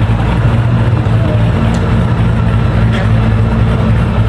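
A motor vehicle engine running at a steady pitch: a loud, even low hum with no breaks.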